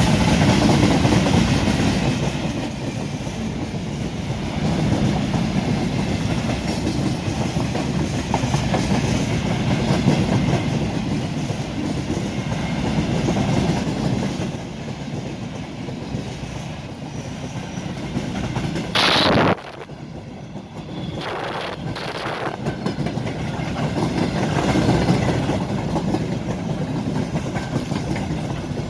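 Freight train rolling past, its wagon wheels clattering over the rail joints with a steady rumble. A brief, loud, high-pitched sound cuts in about two-thirds of the way through.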